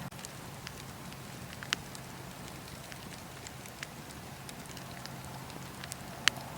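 Wood fire burning in a fireplace: a steady hiss with scattered sharp crackles and pops, the loudest pop near the end.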